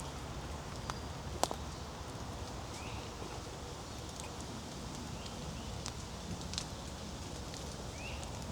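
Rainwater dripping from wet trees onto leaves in scattered sharp taps over a steady hiss, with a small animal's short rising call three times, about every two and a half seconds.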